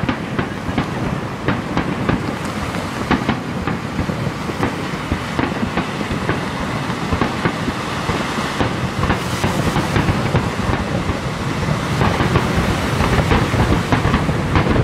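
Fireworks display: aerial shells bursting in quick succession, many sharp bangs over a continuous rumble, growing louder over the last few seconds.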